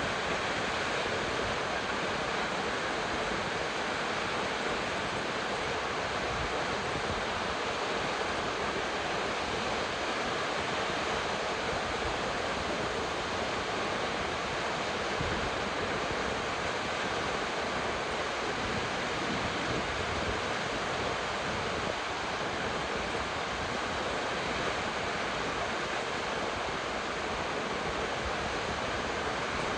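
Salt Creek Falls, a tall plunge waterfall, giving a steady, unbroken rush of falling water.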